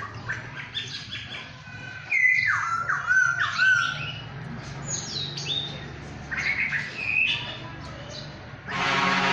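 Songbirds chirping and whistling: many short calls and gliding whistled notes, the loudest a run of falling whistles a few seconds in, with a harsh, raspy call near the end.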